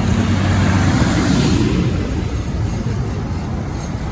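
Tractor engine running as it passes close by, with a steady low engine hum, loudest about one and a half seconds in, then easing off.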